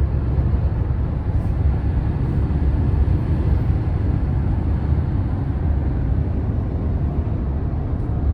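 Steady road and engine noise heard from inside a moving car, deep-toned with a fainter hiss above it.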